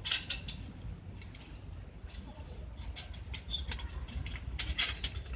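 Light clinks, clicks and rattles of small metal camping gear being handled, in irregular clusters, a busier run near the end.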